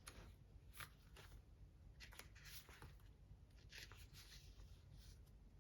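Near silence, with a few faint, short rustles and soft clicks of oracle cards being handled.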